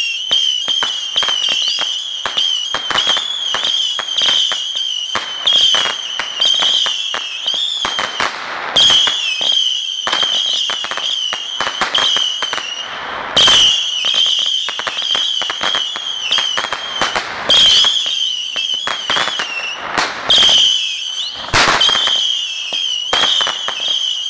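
Fireworks giving off a continuous, wavering high whistle over dense crackling. The whistle restarts with a louder burst every few seconds, at least five times.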